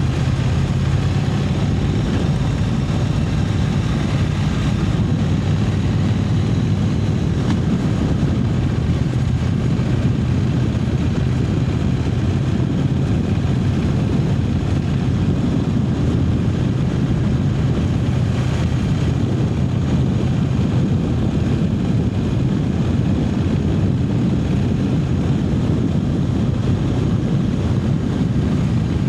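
Triumph Speed Twin 900's 900 cc parallel-twin engine running at a steady cruise while riding, its note holding even, with wind noise over it.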